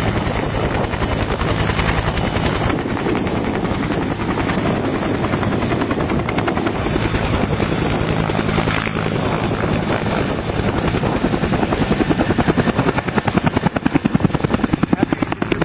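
UH-1 Huey helicopters flying by, their rotors and turbines making a continuous loud beating. The rotor beat swells and pulses more strongly about twelve seconds in.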